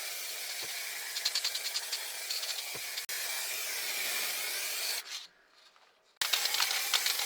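Repeated abrasive rubbing strokes over a steady hiss, as in hand sanding or scrubbing a surface. The sound breaks off into near silence about five seconds in and then resumes for a second more.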